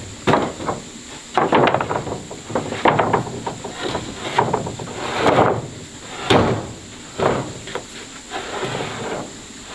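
Wood being knocked and handled: an irregular series of knocks and short scrapes, about one a second.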